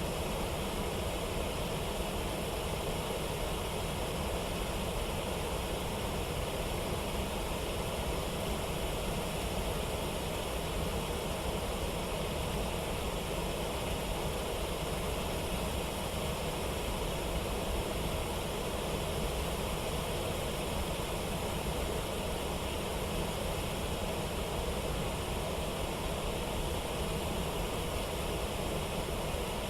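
Steady rush of water falling over rapids, an even, unbroken roar without distinct events.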